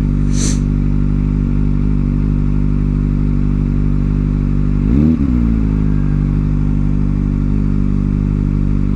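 Kawasaki ZX-4R inline-four motorcycle engine with an aftermarket exhaust running steadily under way. About five seconds in, the engine note briefly dips and rises again.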